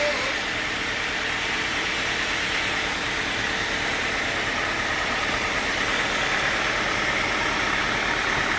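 Sawmill machinery running steadily, a continuous even machine noise with no breaks or pauses.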